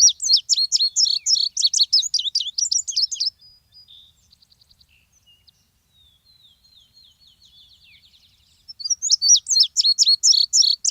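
A songbird singing: a fast run of high chirping notes for about three seconds, a softer, sparser stretch, then the fast run starts again near the end.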